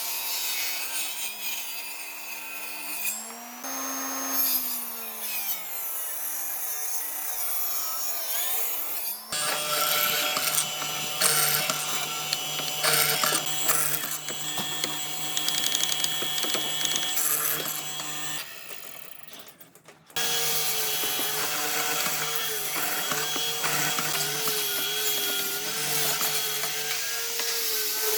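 Electric power tools cutting and sanding hardwood in several short clips, each running with a steady motor hum under dense rasping and scraping. The sound changes abruptly twice, about nine seconds in and again about twenty seconds in, and dips briefly just before the second change.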